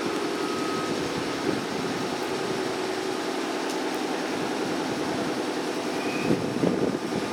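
Train running along the track, a steady rumble with faint whining tones above it.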